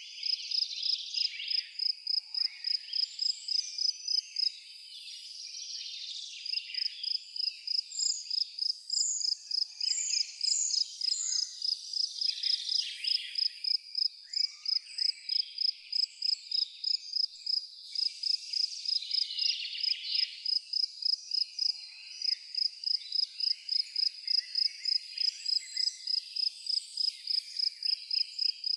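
A cricket chirping steadily in even, high-pitched pulses, about two to three a second, pausing briefly about five seconds in. Birds sing and call in the background, with a run of four short, high falling notes about a third of the way through.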